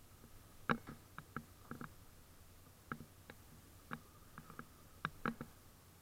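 A series of irregular light clicks and knocks, about fifteen, over a faint steady high whine.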